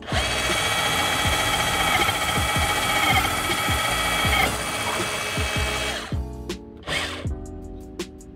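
Bosch GBH18V-26 cordless SDS-Plus rotary hammer, fitted with a keyed chuck and twist bit, boring into a wooden beam. Its steady motor whine and the rasp of the cutting run for about six seconds and then stop, followed by a brief second burst near the end.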